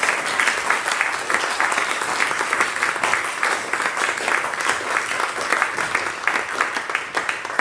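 Audience applauding, a dense, steady clapping that dies away at the very end.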